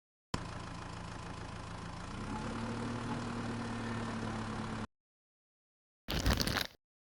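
A small motor runs with a steady hum, its pitch stepping up slightly about two seconds in, and then cuts off suddenly. Near the end comes a short, loud burst of noise.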